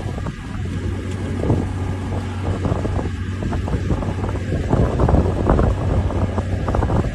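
A steady, loud mechanical drone with a constant low hum, rough wind-like rumble on the microphone and irregular short knocks.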